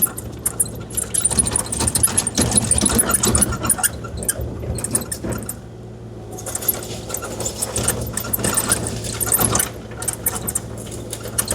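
Kubota KX040-4 excavator's diesel engine running steadily under load while its bucket drags and spreads gravel, with a constant clatter of stones and rattling metal.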